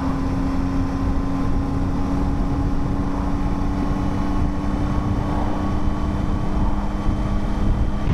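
Motorcycle engine running at a steady cruising speed, its note held at one pitch, over a heavy rumble of wind and road noise; the engine note drops away just before the end.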